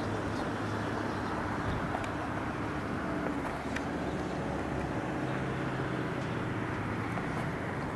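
A motor vehicle engine running with a steady low hum, its pitch shifting slightly about halfway through.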